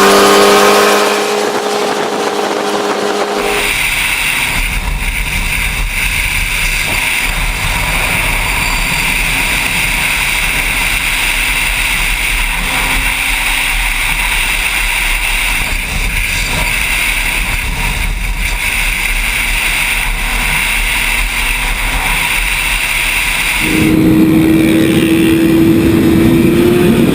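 Motor vehicle on the road: an engine running with a steady pitch at first, then a long stretch of steady road and wind noise, and an engine tone again near the end.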